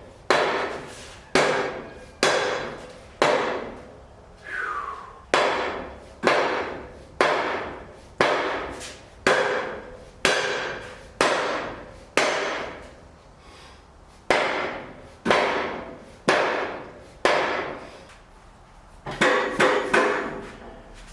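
Hammer-like strikes on metal, about one a second, each ringing on briefly and dying away. There are a couple of short pauses, and a quicker run of blows near the end.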